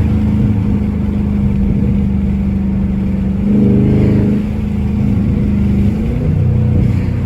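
Dodge Charger Scat Pack's 392 HEMI V8 cruising with a steady exhaust drone. The drone swells briefly under a little throttle about halfway through.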